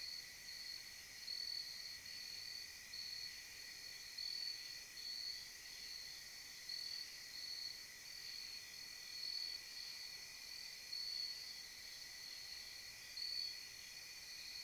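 Night insects such as crickets chirring steadily in a high band, swelling in short louder pulses about once a second.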